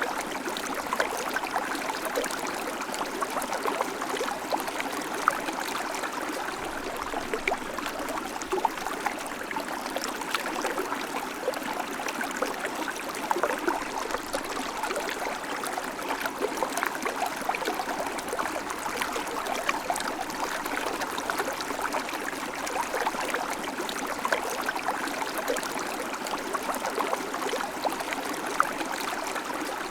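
A river flowing steadily over stones, a continuous rush of water with many small splashes and gurgles.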